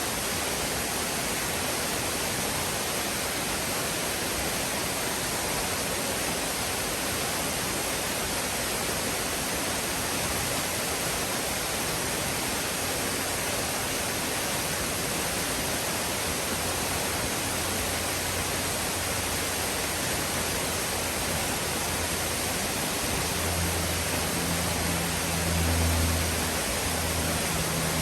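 Steady rush of falling water from Nunobiki Falls, an even hiss across the whole range. In the last few seconds a low engine drone rises in over it.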